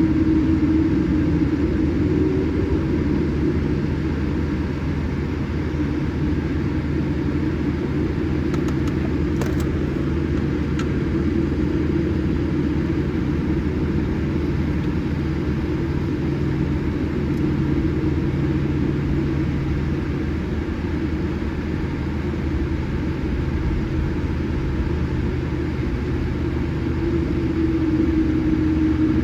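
Steady cabin noise inside a Boeing 787-8 airliner: an even roar of engines and airflow with a low hum throughout.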